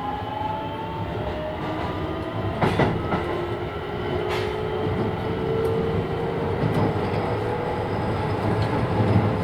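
Keisei 3000 series electric train heard from inside the car: the Toyo IGBT inverter and traction motor whine slowly rising in pitch over the steady rumble of the wheels on the rails, with two sharp knocks from the wheels a couple of seconds apart.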